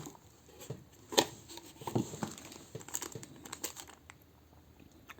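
Plastic packaging crinkling and rustling as it is handled and pulled open, in a string of small crackles and clicks, the sharpest about a second in.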